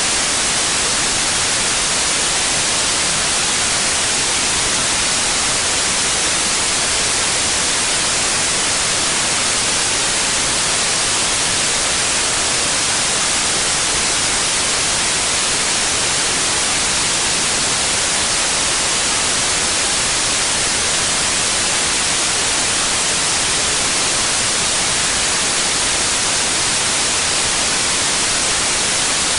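Steady white noise, an even, unchanging hiss heaviest in the treble.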